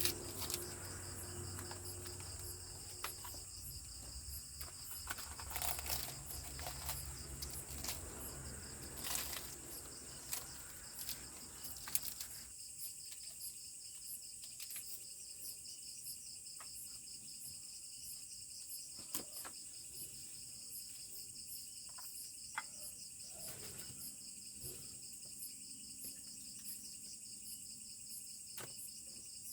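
Steady high-pitched chorus of insects such as crickets, a continuous pulsing trill. Scattered short clicks run through it, and a low rumble underneath stops about twelve seconds in.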